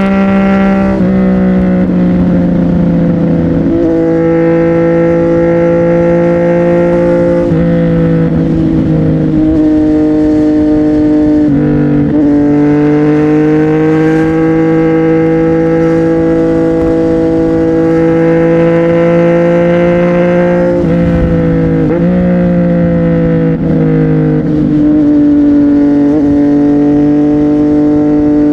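CFMoto 675NK's three-cylinder engine running through an aftermarket titanium exhaust, its note held at fairly steady revs and stepping down and back up in pitch several times.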